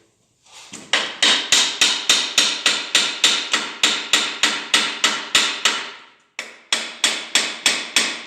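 A small hammer tapping rapidly, about four blows a second, on the main bearing bed (ladder frame) of a G4NA engine block to rock it loose after its bolts are out. The tapping stops briefly about six seconds in, then carries on.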